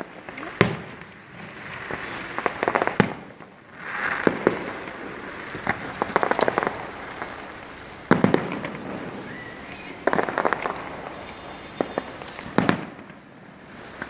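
Aerial fireworks going off: a sharp bang every few seconds, each followed by a spray of rapid crackling.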